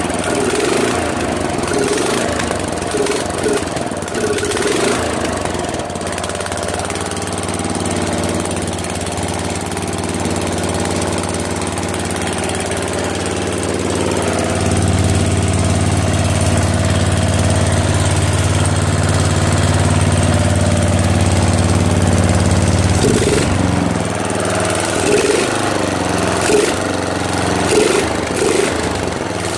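Freshly swapped-in 12.5 hp Briggs & Stratton flathead mower engine running steadily after being started. Its note grows fuller and louder about halfway through, then turns less even for the last few seconds.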